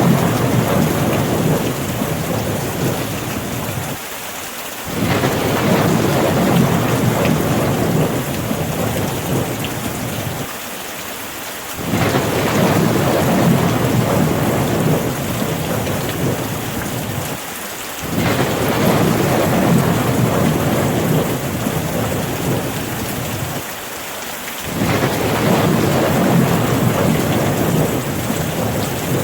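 Steady rain with rolling thunder: a low rumble starts suddenly about every six to seven seconds and fades away, while the rain hiss continues underneath.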